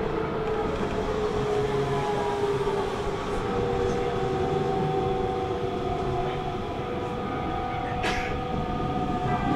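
Hanshin Railway electric train heard from inside the carriage while running: a continuous rumble of wheels on track with a steady whine of several tones over it. A brief high-pitched squeak or hiss cuts in about eight seconds in.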